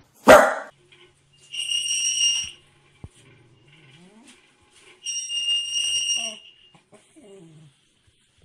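A high-pitched electronic alarm beep sounds twice, each a steady tone lasting about a second, about three and a half seconds apart. A brief loud noise comes right at the start, and faint low gliding sounds fall between the beeps.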